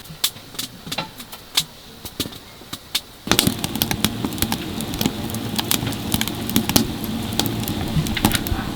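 Sharp crackling pops from a wood stove fire. About three seconds in, a steady low mechanical rumble starts suddenly and keeps going under the crackle.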